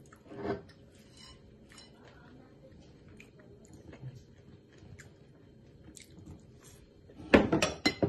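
Crisp waffle fries being eaten, with faint crunching clicks. There is a short thump about half a second in, and near the end a loud clatter of a ceramic plate being handled.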